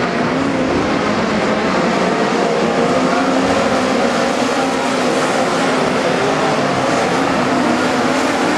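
A field of midget race cars racing, several engines running hard at once, their pitches wavering up and down as the cars lap.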